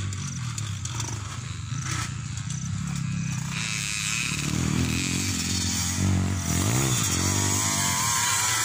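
Motocross dirt bike engines running, with the revs rising and falling about six to seven seconds in.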